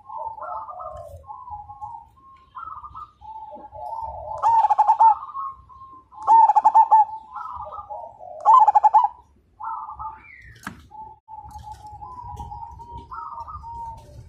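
Zebra dove (perkutut) cooing over and over, with three loud rolling coo phrases about two seconds apart in the middle and softer coos between them. There is one sharp click about two-thirds through.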